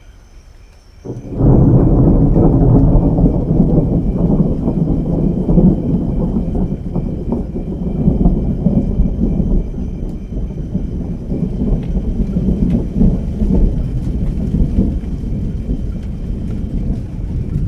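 Thunder: a loud peal breaks in suddenly about a second in, then rolls on as a long, low rumble.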